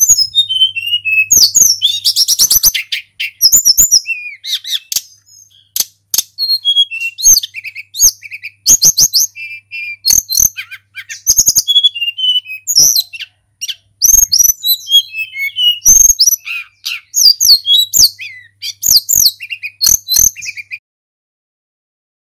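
Tledekan gunung, a blue flycatcher, singing a fast, varied song of high whistled notes, slurs and short trills, broken by sharp clicks, and stopping about a second before the end.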